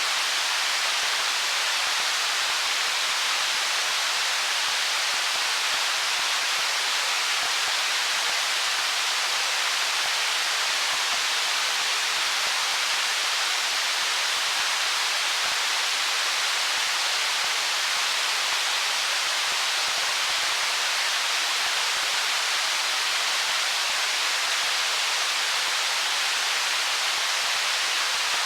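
Stream water rushing steadily over stones, an even, unbroken hiss without distinct gurgles or splashes.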